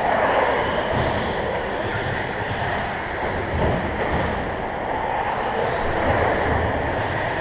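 Several 1/10-scale RC stadium trucks racing on an indoor carpet track: a steady, unbroken mix of motor and tyre noise.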